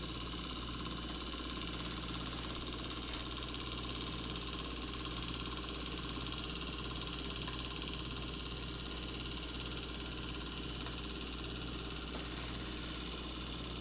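Stirling engine running steadily: a constant low hum with a high hiss over it.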